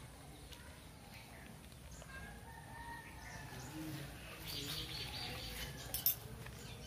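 Birds calling faintly, with short gliding calls early on and a run of repeated high chirps in the second half. One sharp click about six seconds in is the loudest sound.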